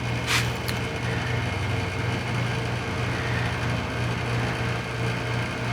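Steady low mechanical hum, with a short hiss about a third of a second in.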